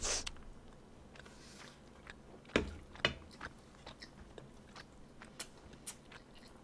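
Close-miked chewing of a mouthful of rice. A short noisy sound as the spoon goes into the mouth, then scattered soft wet mouth clicks and smacks.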